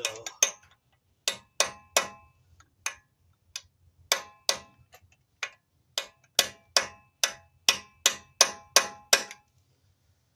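Hammer driving a chisel against the staked, bent-down collar of a BMW front axle nut to lift it back up: about twenty sharp metal-on-metal strikes with a brief ring. They come unevenly at first, then quicken into a steady run of about two or three a second before stopping near the end.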